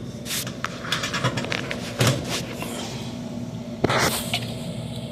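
Furnace PSC blower motor running steadily with a low hum. Scattered clicks and rustles come over it, with a louder rustling burst about four seconds in.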